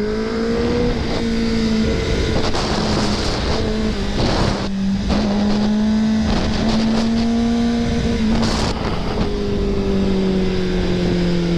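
2024 Kawasaki ZX-10R's inline-four engine running at a nearly steady pitch while being ridden, with a slight rise and fall in revs. Wind rushes over the microphone throughout, swelling briefly twice.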